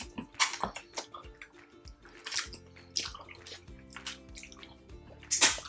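Close-miked wet eating sounds: chewing and sticky mouth noises as spicy pata humba and rice are eaten by hand, in short irregular bursts with the loudest near the end. Soft background music plays underneath.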